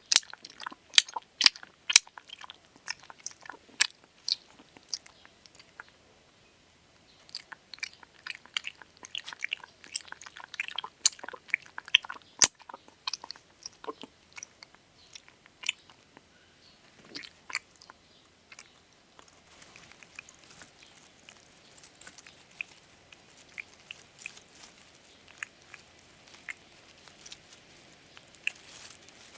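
Dog chewing and crunching food close to the microphone, with many sharp crunches. They break off briefly about six seconds in and turn softer and sparser in the last third.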